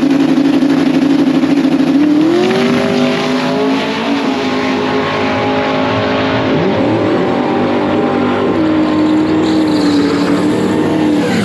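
Twin-turbo small-block Mopar V8 of a drag-race Dodge Dart held at a steady, pulsing high rev, then launching about two seconds in. The engine note climbs and steps through the run, with a dip and re-climb near the middle like a gear change, and cuts off suddenly at the end.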